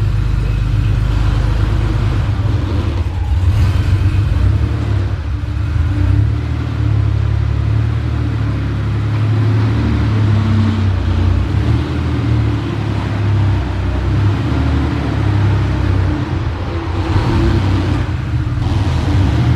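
Porsche 964's air-cooled flat-six engine running, a steady low sound whose pitch shifts a little now and then.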